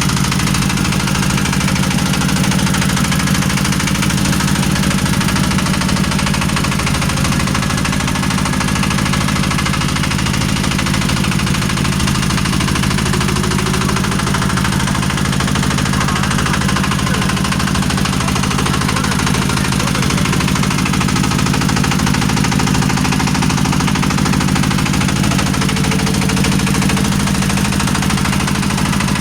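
Boat engine running steadily, a constant low hum with a steady hiss over it.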